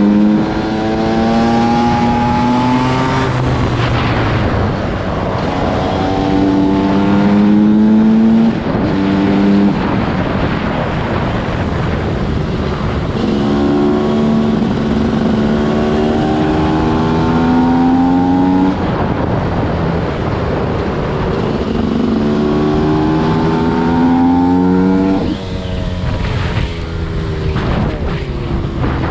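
TM SMR 300 two-stroke single-cylinder engine at full throttle, its pitch climbing in several hard pulls, each broken off by a gear shift and starting lower again. Near the end the throttle eases off and the engine note drops back.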